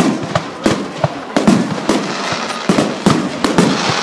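Firework display in full swing: about ten sharp bangs of bursting aerial shells in quick succession over continuous crackling.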